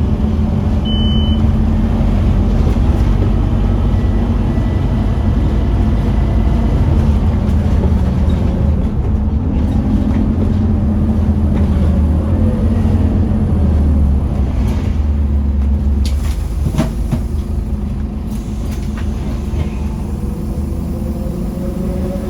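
Scania OmniCity double-decker bus engine pulling hard under load, with a steady low drone. It eases off about 16 seconds in, with a few knocks and rattles as it does. A brief high beep sounds about a second in.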